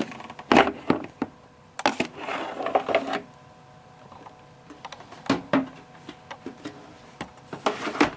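Hard plastic humidifier housing knocking and clattering as the tower body is pulled up and handled: a few sharp clacks, a run of rattling about two to three seconds in, and more knocks near the end.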